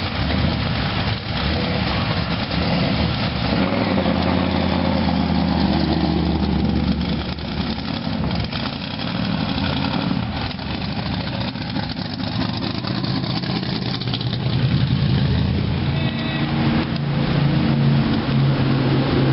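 Car engines running, with the pitch shifting every few seconds as they rev up and settle.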